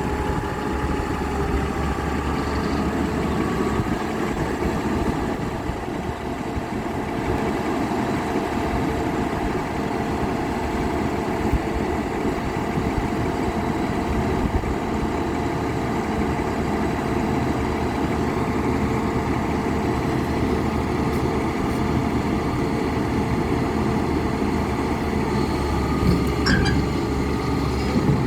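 Heavy diesel engine running steadily with a low, even drone, with a short high-pitched sound near the end.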